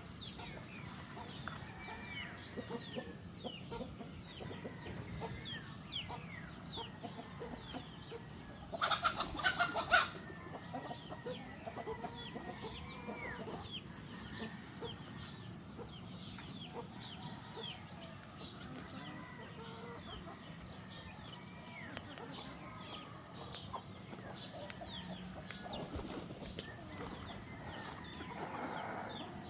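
A flock of chickens clucking, with many short high chirps throughout. About nine seconds in comes a brief, loud burst of noise, such as a flurry of flapping wings.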